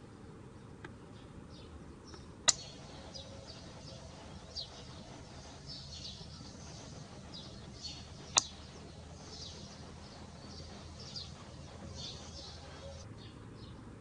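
Small birds chirping repeatedly in short, high, falling notes over a low steady background noise, with two sharp clicks about six seconds apart.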